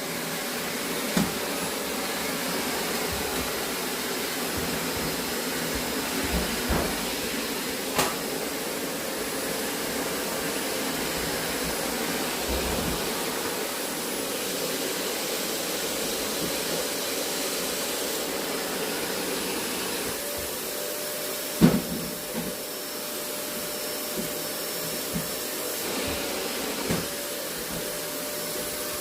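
Vacuum cleaner running steadily with a thin, even whine over its rushing noise. A few sharp knocks break in, the loudest about two-thirds of the way through.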